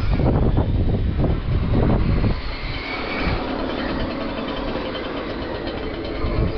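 Radio-controlled race cars running laps together: a dense, steady mechanical whirr of motors and tyres, louder for the first couple of seconds and then more even, with faint whining tones.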